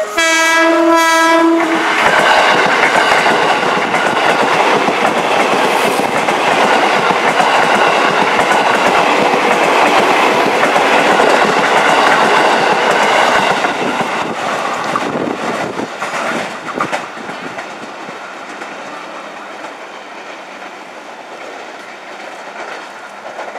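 JR 205 series electric commuter train sounding its horn for about a second and a half, then passing close by with its wheels rumbling and clacking over the rail joints. The noise stays loud for about twelve seconds, then fades away as the train moves off.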